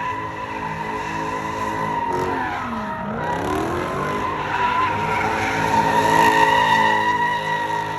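A car doing doughnuts: the engine is held at high revs while the tires squeal steadily, with the revs dipping and climbing back about two to three seconds in.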